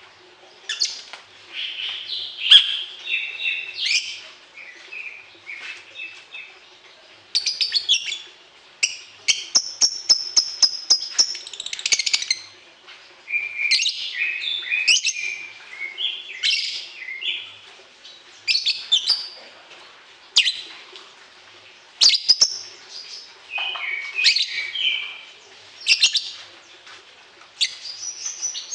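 Songbird singing a varied song of sharp chirps, trills and short phrases, with a fast run of evenly repeated notes partway through, over a faint steady hum.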